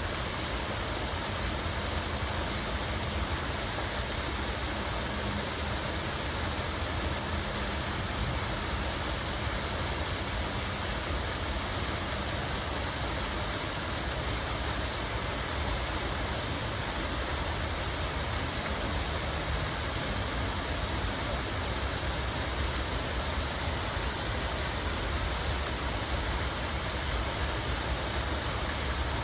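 Steady rush of falling water from a park fountain or cascade, an even hiss with a low rumble underneath.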